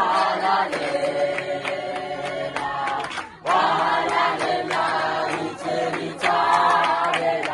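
A group of people singing together in chorus without instruments, a worship song, with a brief break about three and a half seconds in.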